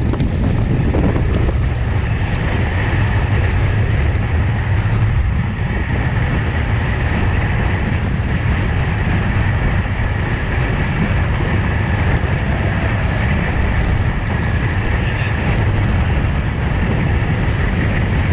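Steady wind rush and road noise on a racing bicycle's on-board camera microphone at race speed, a constant low rumble.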